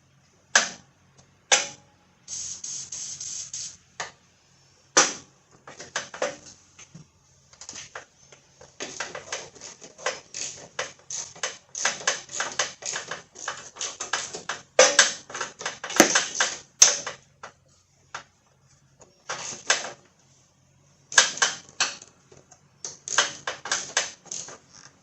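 A short aerosol spray of Fluid Film, a steady hiss for under two seconds, followed by many quick metallic clicks and clatter of hand tools working on the battery cable hardware.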